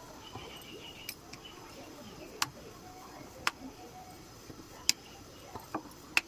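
Four sharp clicks or taps about a second or so apart, the loudest about five seconds in, over a faint steady background.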